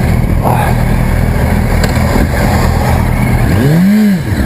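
Motorcycle engine running at road speed under heavy wind rumble while riding. Near the end, a short pitch rises and falls.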